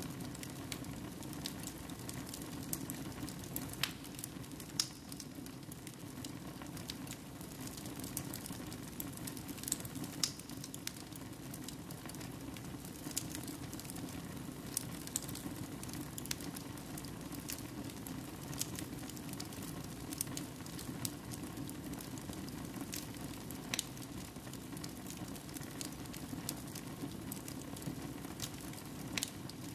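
Wood fire burning in a fireplace: a steady low rush with scattered sharp crackles and pops.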